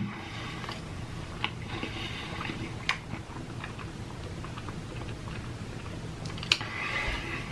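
A person chewing a mouthful of cheeseburger close to the microphone, with a few soft clicks.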